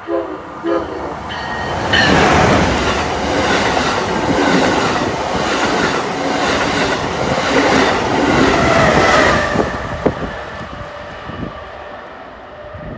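Amtrak Acela high-speed train sounding a few short horn blasts as it approaches, then passing close at speed. The pass is a loud rush of wheels and air lasting several seconds, with a whine that falls in pitch as the train goes by, before the sound drops away.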